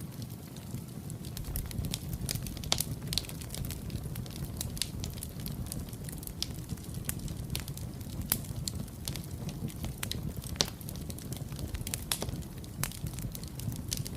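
Fireplace fire crackling: irregular sharp pops and snaps, some louder than others, over a steady low rumble.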